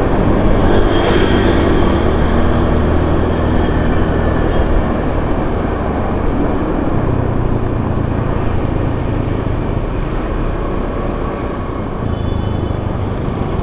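Motorcycle engine running steadily on the move, under a dense hiss of heavy rain and wind on the exposed camera's microphone.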